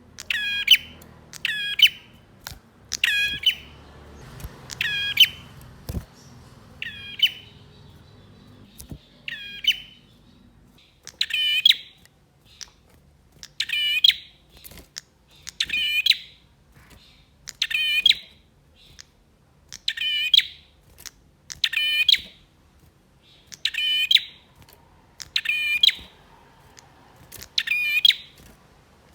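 Male prinia (prenjak) calling: a short, rapid chattering phrase repeated about every two seconds, with a longer pause near the middle.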